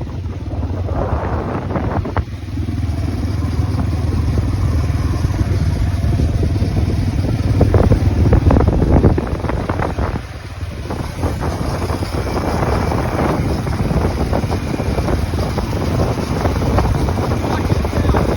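Wind buffeting the microphone on open water: a loud, gusty rumble that swells and eases, dipping briefly about halfway through.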